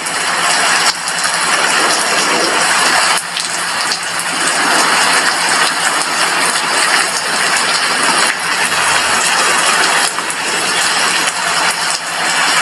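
Heavy rain falling steadily on a glass window, a dense even hiss of drops.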